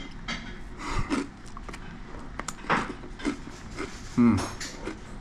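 Scattered light knocks and clinks of crockery and cutlery on a café table, with faint room murmur.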